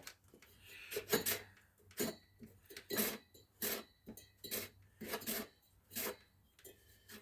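Irregular light metallic clinks and knocks, about a dozen short ones, from heater-box and blower parts being handled and fitted together.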